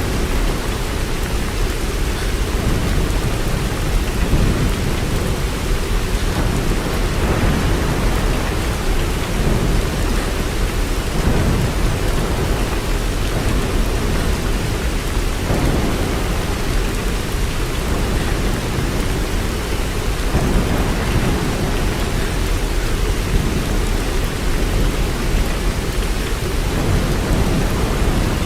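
Steady rain, a constant hiss over a deep low rumble that swells and eases every few seconds.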